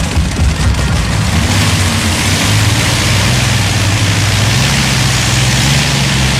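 Modified pulling tractor's engine running at a steady low pitch, a hiss joining about a second and a half in and the pitch creeping up slightly near the end.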